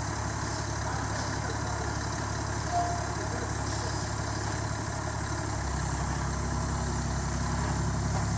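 A vehicle engine idling steadily with a low hum. About two thirds of the way through, its note shifts slightly higher and a little louder.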